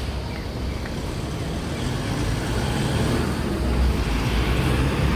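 City street noise with road traffic, a low rumble of vehicles that grows louder from about two seconds in.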